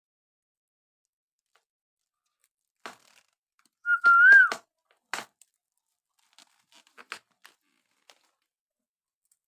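A parrot gives one short whistle about four seconds in, held level and then lifting slightly at its end, amid scattered sharp clicks and crunches.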